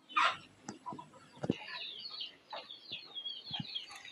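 Birds chirping: a quick run of short, high peeping notes, each falling in pitch, starting about a second and a half in. There is a soft knock just before the chirping begins.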